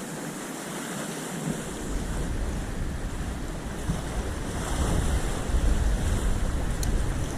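Wind buffeting the microphone, with a low rumble that picks up about one and a half seconds in and is strongest near the end, over a steady wash of sea waves. There is a faint click just before the end.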